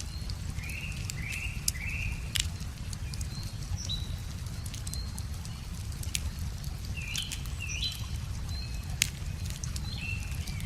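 Wood fire crackling with scattered sharp pops over the steady low rush of a river, while a songbird sings repeated short chirping phrases.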